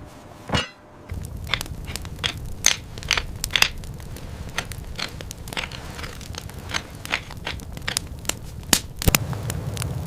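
Irregular crunching and cracking, several sharp snaps a second, over a steady low rumble.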